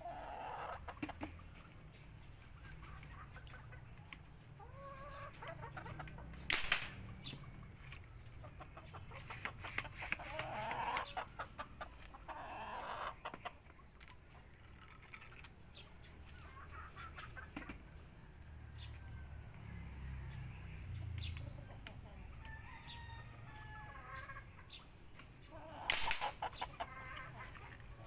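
Chickens clucking on and off, with two sharp cracks, one about a quarter of the way in and one near the end, which are the loudest sounds: shots from a homemade PVC pipe gun.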